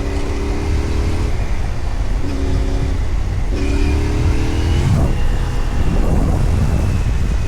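Adventure motorcycle engine running in fourth gear while riding a gravel road, its note rising briefly about halfway through as the throttle opens, over a heavy low wind rumble.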